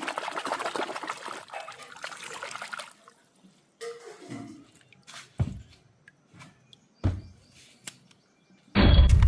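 Water running or spraying for about three seconds, then a few scattered knocks and clunks, and a sudden loud rushing noise that starts near the end.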